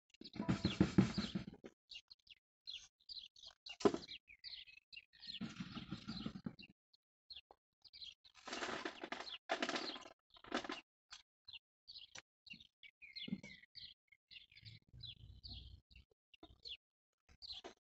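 Small birds chirping and tweeting in short, scattered calls, with several louder bursts of rough, rustling noise, the loudest about a second in, and a sharp click about four seconds in.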